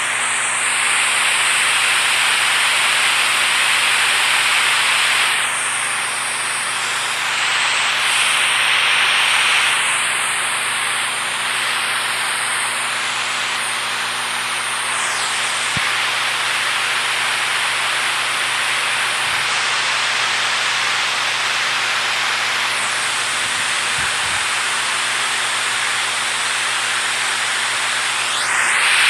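Steady rushing of water, a dense continuous hiss, with a faint low hum beneath it.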